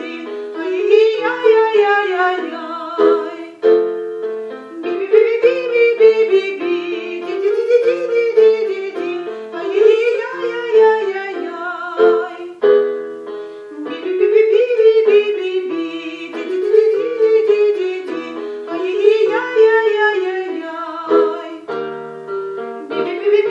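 Choir in a vocal warm-up, singing a syllable exercise with piano. The melody rises and falls in short phrases about every two seconds, and the phrases shift step by step.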